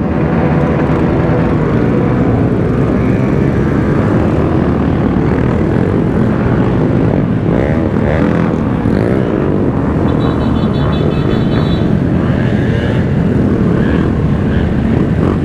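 Several small motorcycle engines running together, many overlapping low engine notes. A short high electronic beeping is heard briefly about two thirds of the way in.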